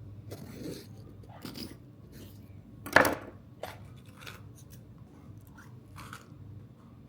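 A few brief scrapes and clicks from objects being handled, with one sharp knock about three seconds in.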